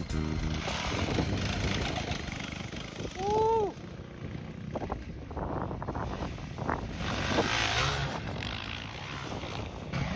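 Small minibike engines running on a dirt track, rising and falling in level as the bikes ride past.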